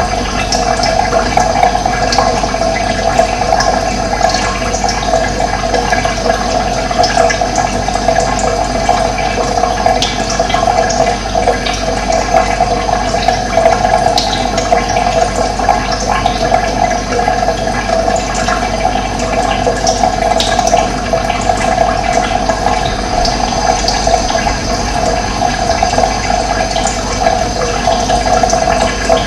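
Running water: a steady, even rushing flow that holds unchanged throughout.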